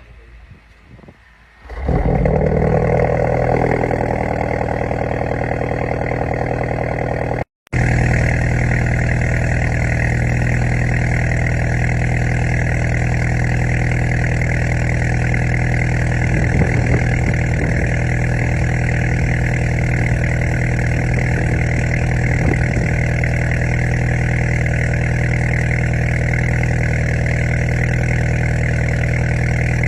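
BMW G20 3 Series engine idling steadily through its newly fitted exhaust. The sound comes in suddenly about two seconds in and breaks off for a moment about seven seconds in.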